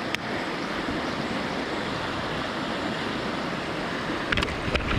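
Steady rush of a swollen mountain river running high after heavy rain. A few sharp clicks sound just after the start and again about four seconds in.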